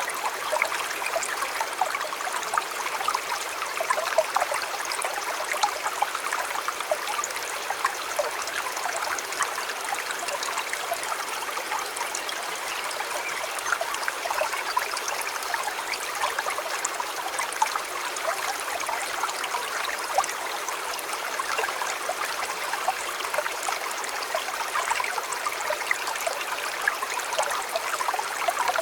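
A shallow river or stream flowing over stones, a steady burbling rush with many small splashes and trickles.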